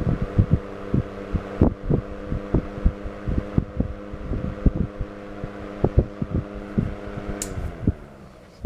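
Vintage Vornado 16C2-1 steel table fan running on low speed: a steady motor hum with irregular low thumps of its airflow buffeting the microphone. About seven and a half seconds in a switch clicks and the hum falls in pitch and fades as the motor winds down.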